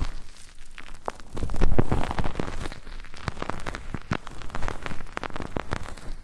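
Close-miked ASMR ear rubbing and ear-cleaning sounds on a microphone: dense crackling scratches with irregular taps, swelling into a louder rub about one and a half seconds in.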